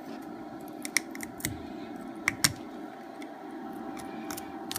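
Metal dental pick scraping and clicking against a plastic workpiece, digging out chips that melted and welded into the cut from too slow a feed rate. Scattered sharp ticks over a steady low hum.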